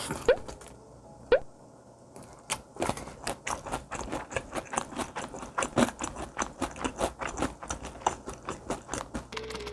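Close-up crunching and chewing of crispy fried chicken, with many crisp crunches a second from about two and a half seconds in. Two short rising squeaks come near the start.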